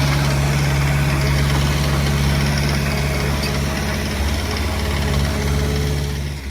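Heavy-equipment diesel engine running steadily with a low, even hum, fading out at the very end.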